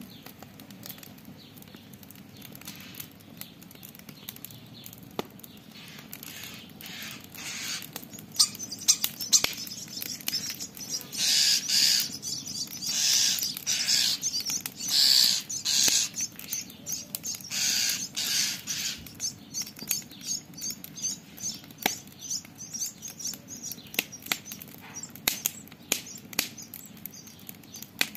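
Campfire crackling with sharp pops throughout. From about 8 to 19 seconds in, a common starling gives a run of harsh, raspy scolding calls, each about half a second long.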